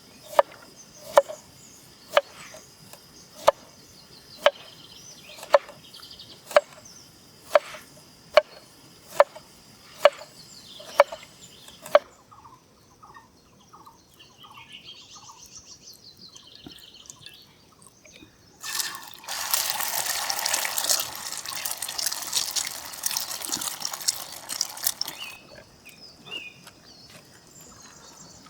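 Knife chopping on a cutting board, one sharp stroke about every second for roughly twelve seconds. Later a loud rush of liquid being poured runs for about six seconds and stops.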